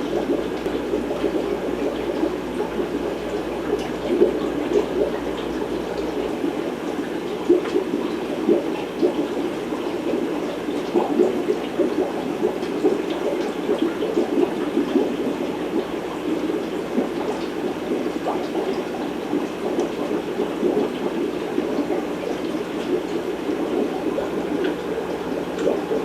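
Aquarium filtration bubbling steadily in a room of fish tanks: a continuous, dense burble of rising bubbles and moving water.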